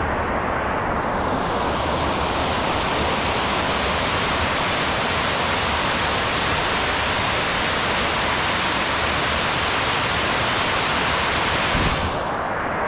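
Heavy rain falling: a steady rushing hiss that turns brighter about a second in and duller again near the end.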